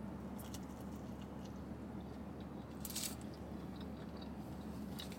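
Biting into a soft flour-tortilla taco and chewing: faint, wet mouth sounds with a few soft clicks, the clearest about three seconds in, over a steady low hum.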